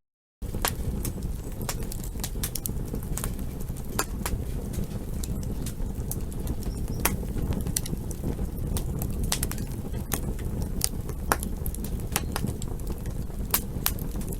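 Campfire crackling: irregular sharp pops and snaps from burning wood over a steady low rumble of flame. The sound drops out completely for a split second at the very start, then resumes.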